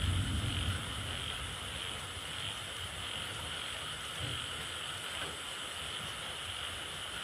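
Steady chorus of calling frogs, with a low rumble in the first second.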